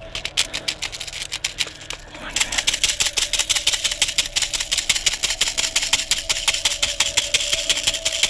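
A small engine running with a fast, even beat, growing louder about two seconds in as it comes closer.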